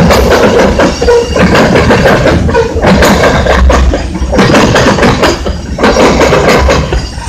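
Loud, steady rumble of a freight train rolling past close by, with engine and rail noise.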